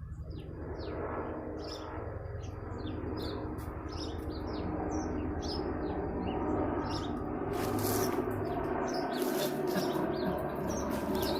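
Small birds chirping, short rising chirps about two or three a second. Underneath is a steady rushing noise, and from about seven seconds in there is louder rustling.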